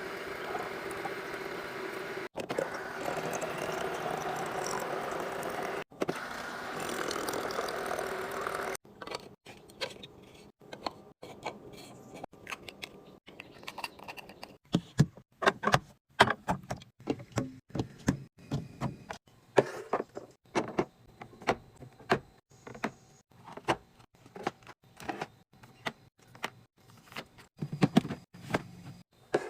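Containers and packaged food being handled and set down while restocking a fridge: a steady rustling noise for the first several seconds, cut off abruptly a few times, then a long run of irregular sharp clicks and knocks.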